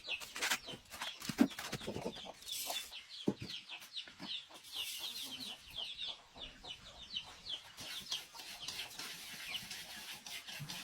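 Chicks peeping in a dense stream of short, falling high peeps, several a second. A few knocks sound among them, the loudest about one and a half seconds in.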